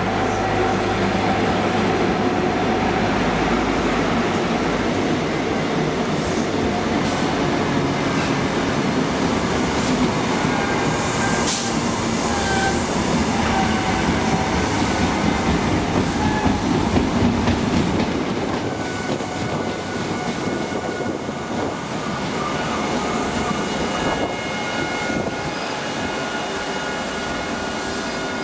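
A High Speed Train with a Class 43 diesel power car running into a station, its engine droning loudly at first. The Mark 3 coaches then roll past with wheels clacking and high steady squeals from the wheels and brakes as the train slows. One sharp click comes about a third of the way through.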